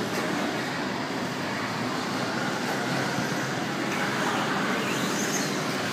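Electric stock stadium R/C trucks running on an indoor clay track: a steady mix of motor whine and tyre noise, with a few faint rising and falling whines near the end.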